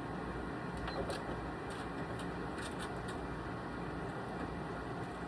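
Sewing machine running steadily as it stitches through quilted fabric, with a few light clicks.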